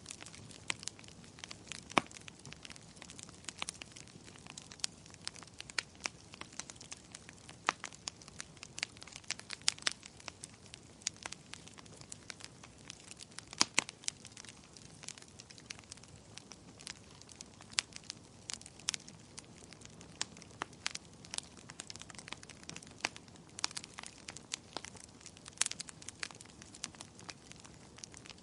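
Wood fire in a fireplace crackling: a steady soft hiss with frequent sharp, irregular pops and snaps, a few of them much louder than the rest.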